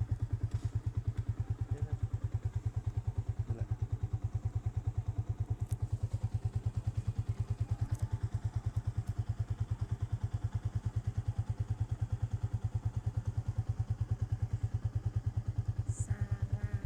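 Motorcycle engine idling steadily, a rapid even putter that holds the same pace throughout.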